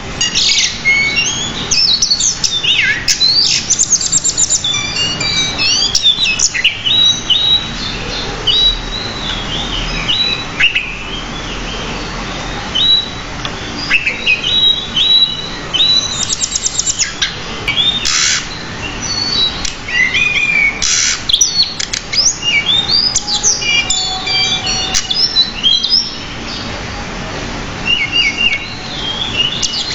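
Pied bushchat (decu) singing continuously and vigorously: a rapid, varied run of high chirps, whistles and quick trills, packed with mimicked phrases.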